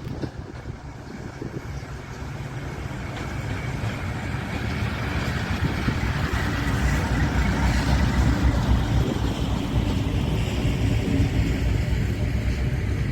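Freight train passing close by: a heavy low rumble with rail and wheel noise that builds over the first seven or eight seconds and then stays loud.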